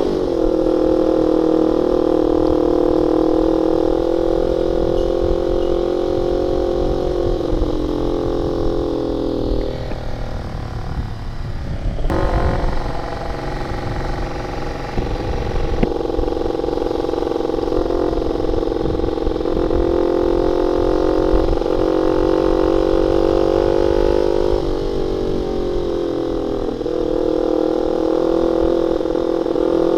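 Honda Sonic 150R's single-cylinder 150 cc engine running through an aftermarket CLD X Monster exhaust with a half-length baffle. It holds a steady high note that falls away about ten seconds in, comes back up a few seconds later, and dips briefly again near the end.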